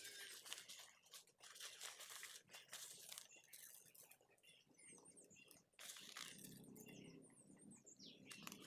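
Faint, high short bird chirps, a few at a time, over light rustling.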